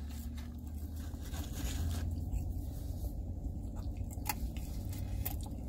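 A person chewing a mouthful of French fries, with a few sharp clicks of the mouth, over a steady low hum in a car cabin.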